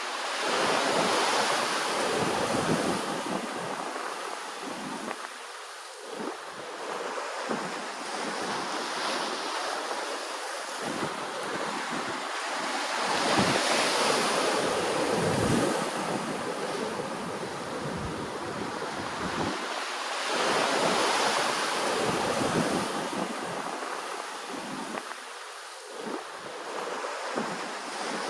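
Ocean waves washing ashore, a steady rush of surf that swells and eases in long surges of several seconds, loudest about a second in, around the middle, and about three-quarters through.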